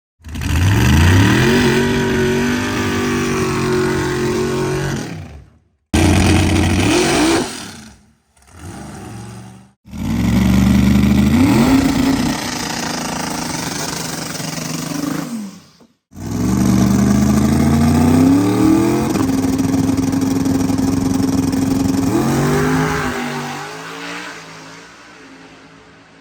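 Big-block twin-turbo V8 drag car at full throttle, its engine pitch sweeping steeply upward and then holding, heard in several separate clips with sudden cuts between them; near the end it drops away and fades.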